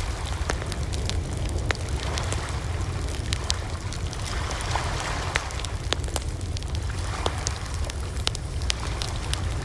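Campfire burning with a steady low rumble and many sharp, irregular crackles and pops from the burning wood.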